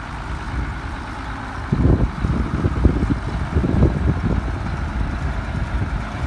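1974 Case 970 tractor's engine running at idle.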